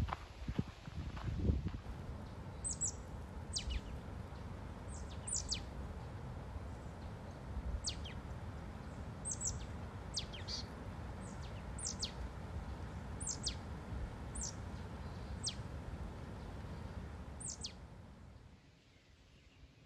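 A forest bird calling over and over, short high notes that sweep steeply down in pitch, about one a second, over a steady low outdoor hiss. A couple of footsteps on the dirt trail are heard at the start.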